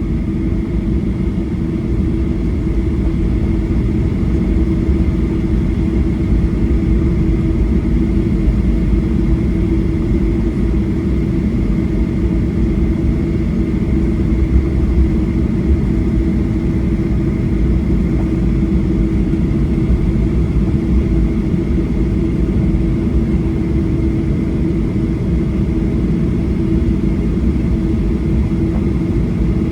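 Boeing 737-800 cabin noise while taxiing after landing: a steady low rumble with a constant droning hum from the engines at idle.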